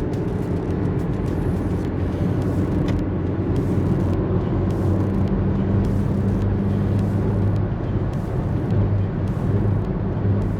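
Peugeot 306's 1.6 litre eight-valve petrol four-cylinder running at a steady pace while driving, with a low, even engine tone over road and tyre noise.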